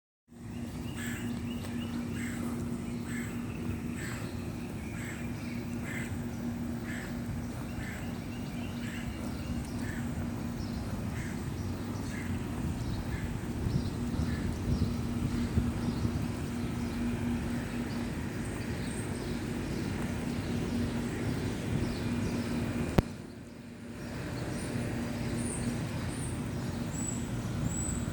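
Birds calling outdoors, short chirps repeating about once a second over a steady low hum and rumble. The sound drops out briefly near the end, and higher, thinner chirps follow.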